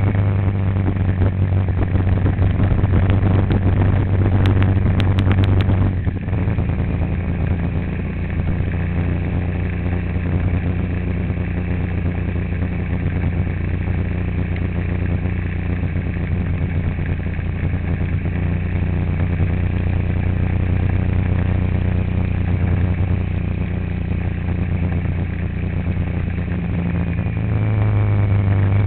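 A vehicle's engine running steadily on the move. Its note drops about six seconds in and rises again near the end. A short run of clicks comes between about four and six seconds.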